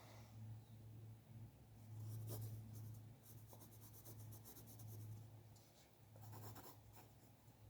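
A drawing tool scratching across paper in a few short bursts of strokes, over a steady low hum.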